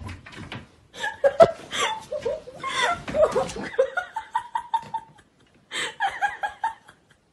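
A person laughing in short, quick bursts of giggles and chuckles, with a single thump about a second and a half in.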